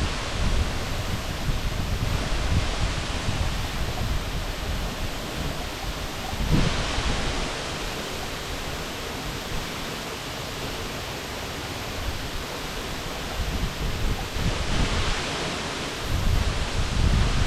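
Waterfall rushing steadily, with a few low rumbling swells of wind on the microphone.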